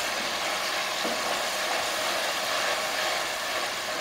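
Tomato, ginger-garlic and spice masala sizzling steadily in hot oil in a steel kadai while it is stirred with a wooden spatula, being fried (bhuna) until the spices cook through.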